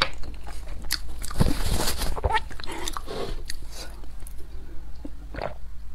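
Close-miked chewing and mouth sounds: irregular wet clicks and smacks, loudest in a cluster a second and a half to two seconds in, over a low steady hum.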